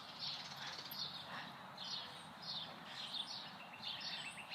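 Small birds chirping, a run of short, high notes that sweep downward, a few a second. A fast, dry trill joins in near the end.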